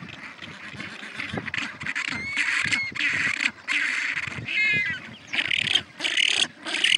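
Waterfowl calling: a run of repeated harsh calls with a few clearer, higher cries in the middle.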